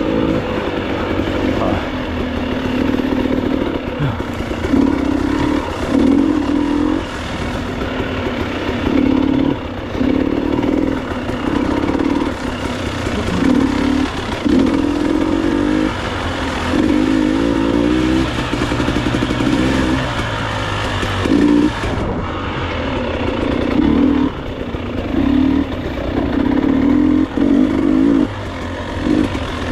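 Enduro motorcycle engine revving in repeated bursts as the throttle is opened and closed, about a dozen times, while riding over a rough, rocky trail, with some clatter.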